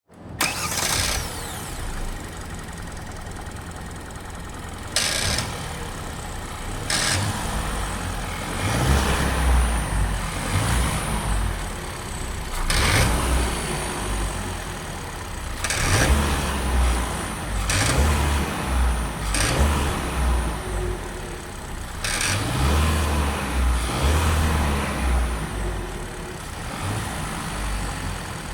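Kia Ceed 1.5 T-GDI turbocharged four-cylinder engine heard from inside the cabin, pulling through several spells of acceleration with rising pitch, with a few short sharp sounds between them. It carries a rattle under acceleration that the dealer calls normal engine operation and the owner takes for a fault.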